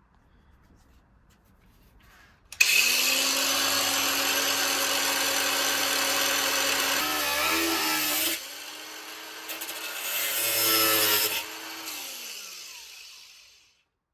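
Angle grinder with a flap disc grinding steel, with a steady motor whine beneath the grinding. It starts suddenly about two and a half seconds in and grinds in two spells, then is switched off and winds down, its pitch falling.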